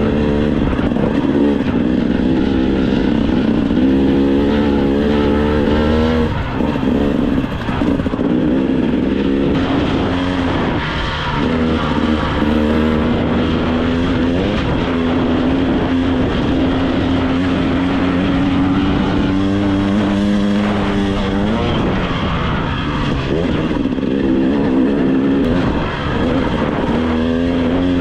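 2025 GasGas EC 300 two-stroke dirt bike engine pulling at low revs, its note rising and falling with the throttle and dropping off briefly a few times. The engine is brand new and being broken in, ridden gently.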